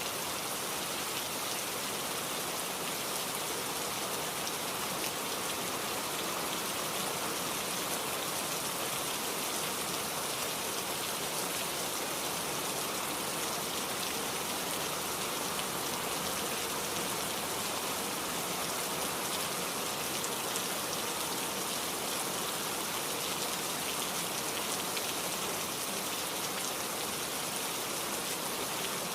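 Heavy rain falling steadily, a dense even hiss of many drops striking a surface, with fine drop patter in the highs.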